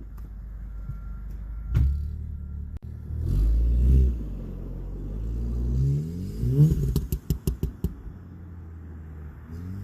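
Tuned Volkswagen Golf R's turbocharged 2.0-litre four-cylinder accelerating, its engine note climbing in pitch, then a rapid run of about half a dozen sharp pops about seven seconds in as it comes off the throttle. The owner suspects the aftermarket blow-off valve is not working properly, giving a turbo flutter.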